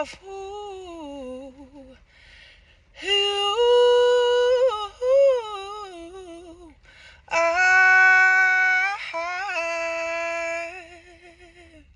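A woman singing unaccompanied: three long, drawn-out phrases of held and gliding notes with no clear words, the last ending in a wavering vibrato before it fades out.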